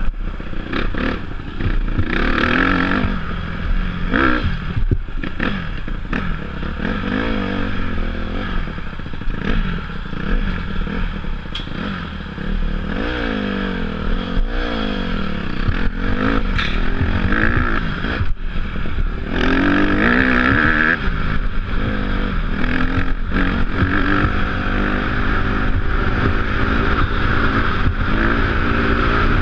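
Off-road motorcycle engine running under load, its pitch rising and falling again and again as the throttle is opened and closed, with scattered clatters and knocks from the bike over rough ground.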